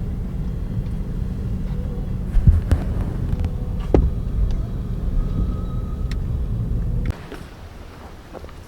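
A vehicle engine running steadily with a low rumble, with a couple of sharp knocks in the middle. It cuts off abruptly about seven seconds in.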